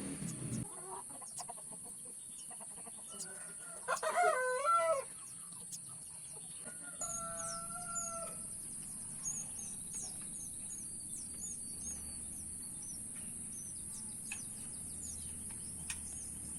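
A rooster crows once about four seconds in, and a second, steadier fowl call follows a few seconds later. A run of short, high bird chirps goes on over a steady high insect-like hiss.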